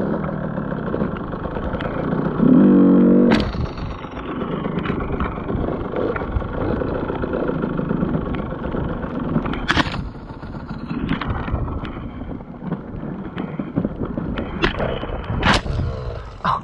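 KTM EXC 125 two-stroke enduro motorcycle engine running while being ridden, with a louder burst of throttle about two to three seconds in. A few sharp knocks sound over it, the loudest near the start and near the end.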